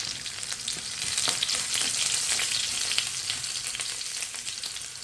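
Garlic frying in hot oil with whole spices for a dal tempering (bagar), a steady sizzle full of fine crackles that eases slightly toward the end.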